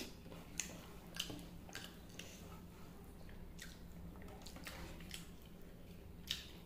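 Wet eating sounds of rice and fish curry eaten by hand: squishing as the fingers mix rice on the plate, and chewing with soft lip smacks. The smacks come irregularly every half second to second, the sharpest one near the end.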